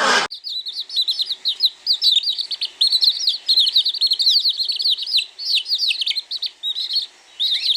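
Small songbirds twittering: a rapid, unbroken stream of short, high chirps.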